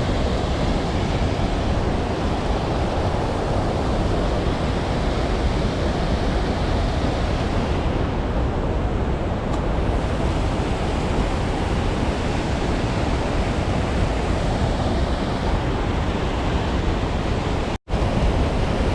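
Steady rushing noise of creek water, with wind on the microphone, cut by a sudden brief gap near the end.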